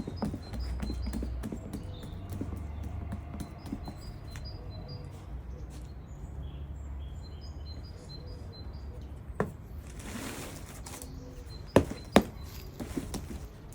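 Small birds chirping in short, repeated high notes over a low steady rumble. A few sharp knocks come near the end, two of them loud and close together.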